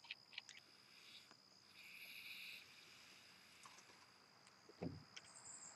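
Near silence, with a faint steady high-pitched insect tone, a soft breathy hiss about two seconds in, and a dull thump near the end.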